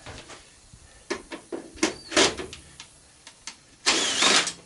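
Clicks and knocks of tools and metal parts being handled while a washing machine is taken apart, with a short, louder rasping rattle near the end.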